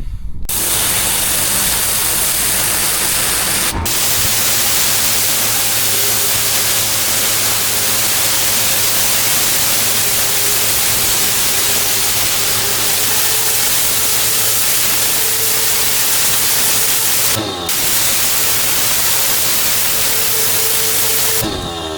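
Pressure washer jetting water onto block paving: a loud, steady hiss of spray with a steady hum underneath. The spray briefly dips twice near the end.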